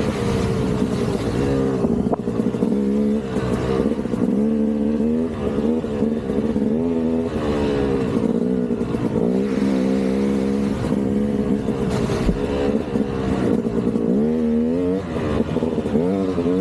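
KTM 200 two-stroke dirt bike engine revving up and down continually, with the pitch rising and falling every second or two as the throttle is worked.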